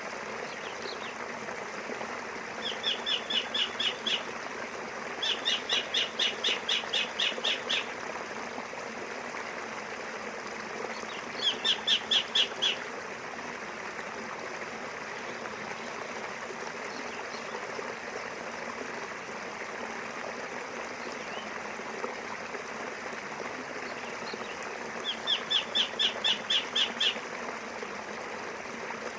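River water flowing with a steady rush, while a bird calls four times in quick runs of high, sharp chirps, several a second. The chirps are louder than the water.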